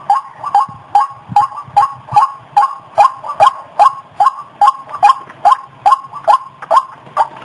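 White-breasted waterhen (ruak-ruak) lure call, a recording of the bird's repeated calls in a steady rhythm of about two to three calls a second. The calls stop near the end.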